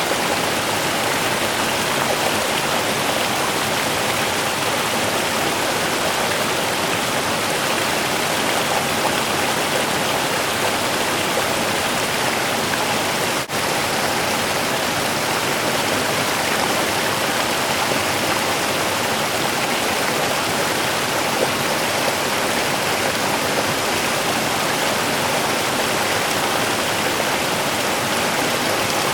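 Small river running steadily over its bed, a constant even rush of water, with one brief dip in loudness about halfway through.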